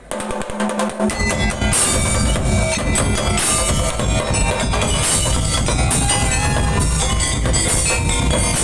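Madurese daul percussion ensemble striking up a number: loose drum strikes at first, then the full band of drums and bright metal percussion playing a dense, steady rhythm from about a second and a half in.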